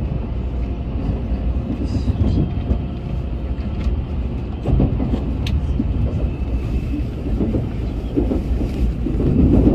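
Shinkansen bullet train running, heard inside the passenger cabin: a steady low rumble with faint faster rattles over it.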